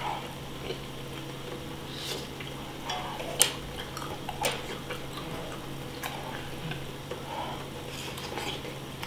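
Close-miked chewing and mouth noises while eating skewered fish cake, with scattered light clicks and one sharper click about three and a half seconds in, over a steady low hum.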